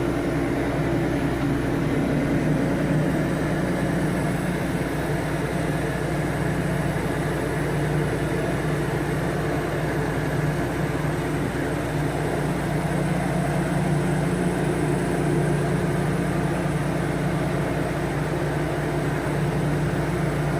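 Tractor engine running steadily under load while pulling a stump out on a rope through snatch blocks, its pitch and level holding even throughout.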